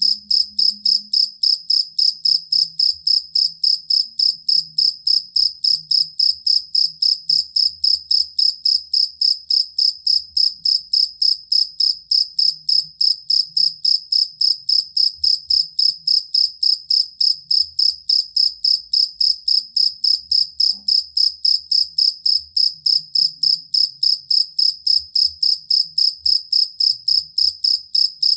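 Field cricket (jangkrik kalung) singing: a steady, unbroken train of short, high-pitched chirps at about three a second, all on one pitch.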